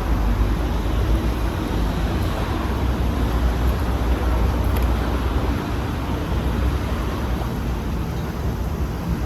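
Steady road traffic noise with a low rumble, easing a little about halfway through.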